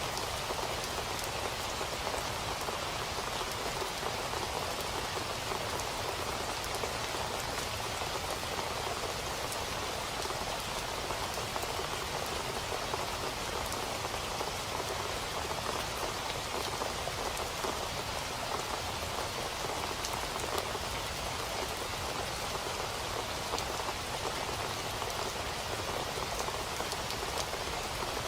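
Steady rain falling, an even hiss with the fine patter of individual drops striking a surface.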